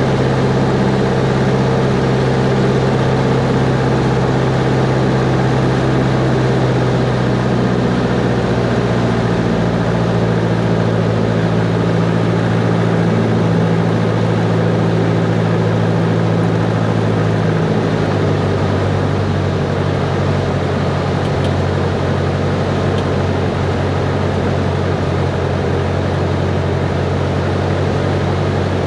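Cessna 140's single piston engine and propeller droning steadily in flight; the engine note steps down in pitch twice, about a quarter of the way in and again about two thirds through.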